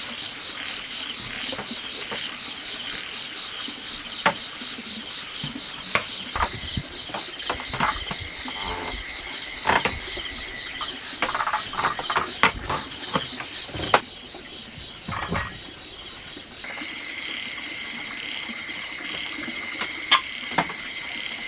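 Steady insect chorus, a rapid pulsing high trill with a second, steadier high tone that drops away and comes back about two-thirds of the way through. Scattered short clicks and knocks of handling sound over it, most of them in the middle.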